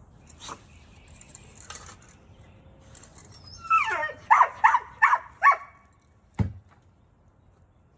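A dog giving a high falling whine, then four quick, high-pitched yips, followed about a second later by a single dull thump.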